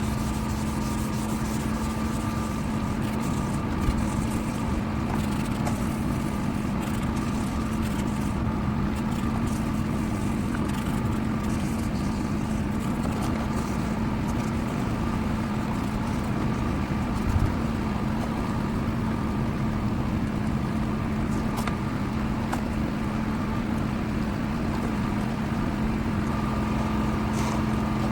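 A motor running steadily with an even, unchanging hum, with a couple of brief knocks.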